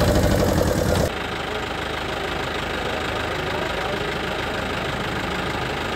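Engine idling with a fast, even knock, loud at first, then cutting abruptly about a second in to a quieter, steady engine run.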